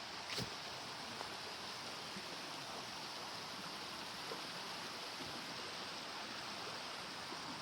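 Steady rush of a small stream running over stones, with one brief sharp knock about half a second in.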